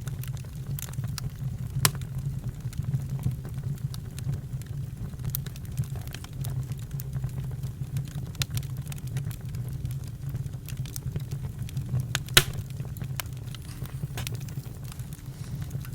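Campfire crackling: irregular sharp pops, the loudest a little under two seconds in and about twelve seconds in, over a steady low rumble.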